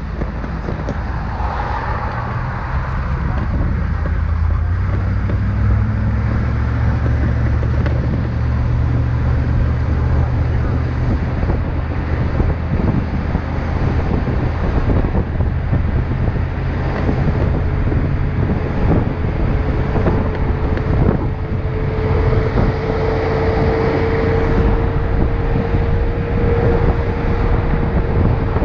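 Car driving, with steady engine and road rumble heard from inside the cabin; a faint steady whine comes in about halfway through and holds.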